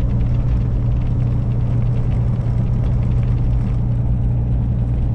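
Semi truck's engine running steadily while driving, heard from inside the cab as a constant low hum with road noise over it.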